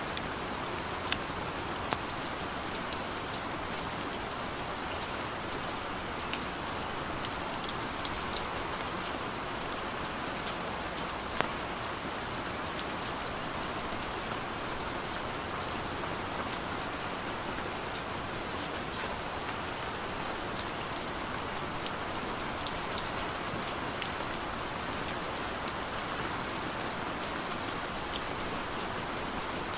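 Heavy rain falling steadily, a constant hiss with occasional sharp taps of single drops.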